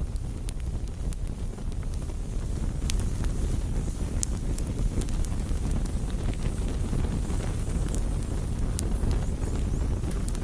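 Wood campfire burning, crackling with irregular sharp pops and snaps over a steady low rumble.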